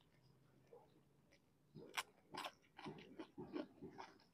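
Close-up chewing of crisp fried snacks (gorengan), with a run of short crunches and mouth clicks starting about two seconds in.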